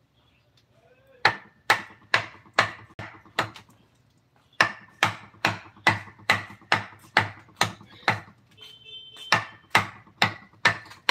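Wood-carving mallet blows on a chisel: runs of sharp knocks, about two or three a second, each with a faint metallic ring, broken by two short pauses.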